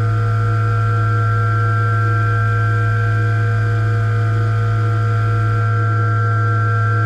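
CNC milling machine spindle running at a steady speed: a constant low hum with a few steady whining tones above it.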